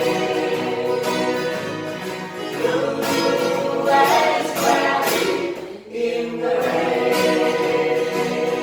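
Group of voices singing with acoustic guitar accompaniment, with a brief drop in the sound about six seconds in.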